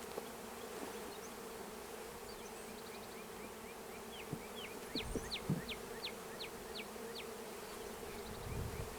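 Honey bees buzzing around open hive frames, a steady hum. About halfway through a bird gives a quick run of short falling chirps, and there are a few soft low knocks from frames being handled.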